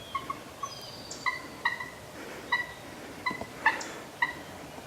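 Turkey clucking: a string of short, sharp notes, about eight of them, coming irregularly every half second to a second.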